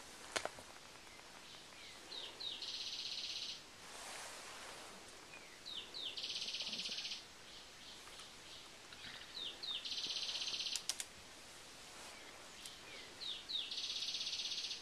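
A bird singing a repeated phrase: two short falling high notes, then a rapid dry trill lasting about a second, four times at even intervals. A sharp click sounds just after the start, and a brief rustle about four seconds in.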